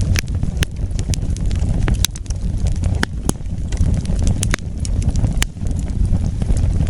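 Wood fire burning: a steady low rumble with about ten sharp crackles and pops at irregular intervals.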